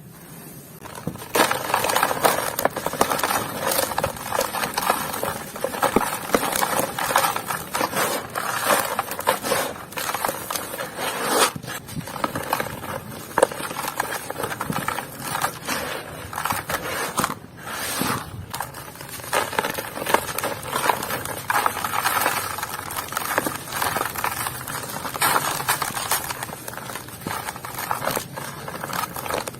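Dry, crumbly lumps being crushed and crumbled into dust: a dense run of crunching, crackling and gritty scraping that starts about a second in.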